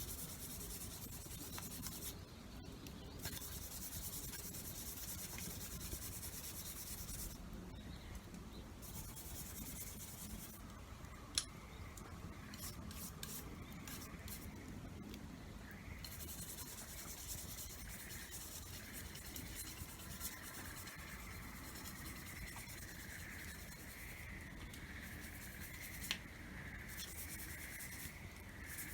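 Rubbing, sanding-like scraping on a tool being cleaned or sharpened, in stretches of several seconds that stop and start. Underneath is a steady low rumble, with a few sharp clicks, the loudest about a third of the way in.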